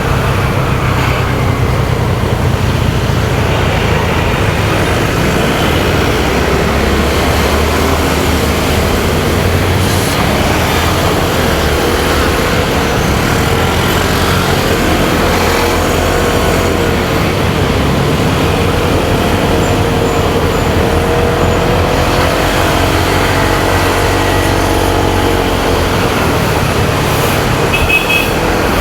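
Motorcycle engine running steadily under way, with road and wind noise and the sound of surrounding traffic. Midway, another vehicle's engine note rises and falls as it passes.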